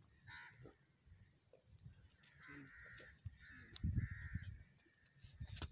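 A bird calling several times in short, repeated calls, over a faint steady high-pitched hum. Low rumbles on the microphone are the loudest sound, about four seconds in and again near the end.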